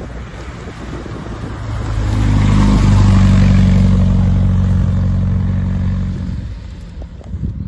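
The Triumph Spitfire's four-cylinder engine running through its new stainless steel exhaust. The engine note swells to a peak a few seconds in, then fades away, as the car passes by or drives off.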